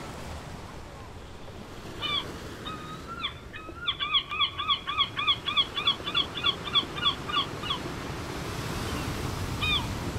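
Beach ambience: an even wash of surf with a gull calling over it. A few single calls come first, then a rapid laughing run of about four calls a second for some four seconds, and one more call near the end.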